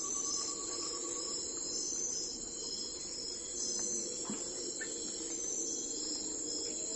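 Crickets and other insects chirping in a steady, high, pulsing chorus, with a lower pulsed trill that stops about a second and a half in.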